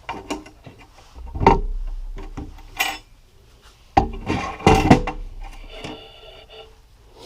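Metal engine parts and tools being handled and set down on a workbench: a run of knocks and clatters, with one piece ringing briefly in the later part.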